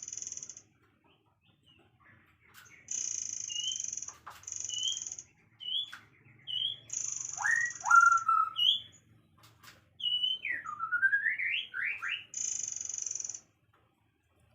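Birdsong: short chirps and whistled notes sweeping up and down. Between them a harsh, high buzzing call about a second long repeats several times.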